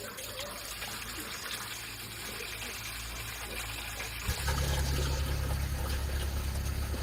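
Water trickling, joined about four seconds in by a louder, steady low hum.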